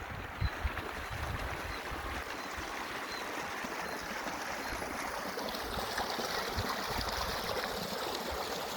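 Running water of a stream, a steady rushing that grows slightly louder partway through, with a few low thumps underneath.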